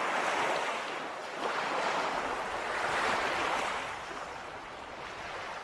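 Sea waves washing in: a rushing noise that swells and falls back about three times.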